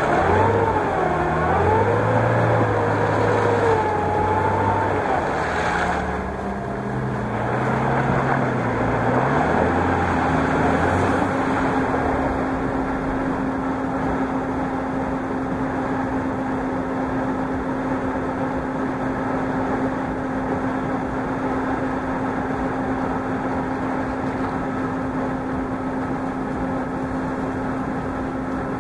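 Chevrolet Niva engine running while the car sits stuck on its axle beam in muddy ruts. For the first six seconds or so the revs rise and fall with a wavering whine over them. Then the pitch climbs and holds one steady note.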